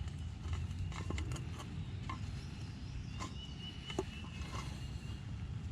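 Faint small clicks and taps of parts being handled, over a low steady hum, with a thin high tone that comes and goes.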